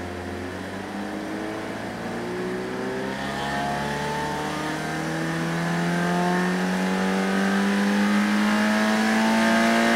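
A naturally aspirated 2.4-litre FA24 flat-four in a 2022 Subaru BRZ, with 4-2-1 headers and a stock rear exhaust, making a wide-open-throttle pull on a chassis dyno. Its pitch climbs slowly and steadily through the rev range, growing louder as it goes.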